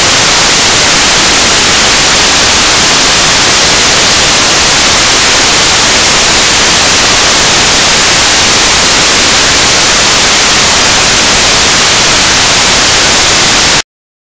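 Loud, steady static-like hiss with no rhythm or crackle, cutting off abruptly near the end.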